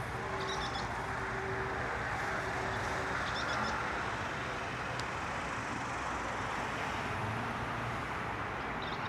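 Steady outdoor background hiss and hum, with two faint clusters of short high chirps.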